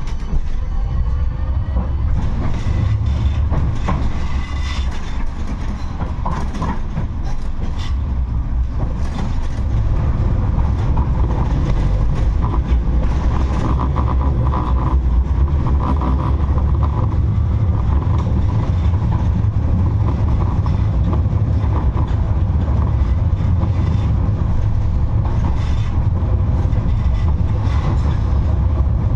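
A 71-628-02 tram running along the track: a steady low rumble of wheels and running gear with scattered clicks and knocks from the rails, growing louder about a third of the way in.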